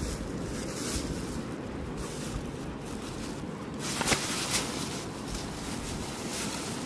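Steady rush of fast river water with wind buffeting the microphone, and a sharp knock or two about four seconds in.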